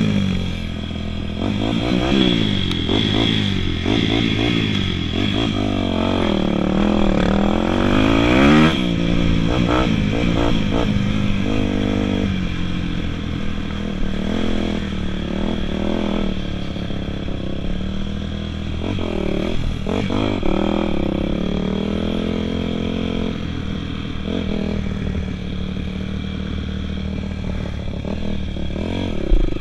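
Several dirt bike engines revving up and down as the riders open and close the throttle and shift through the gears, their notes overlapping and rising and falling.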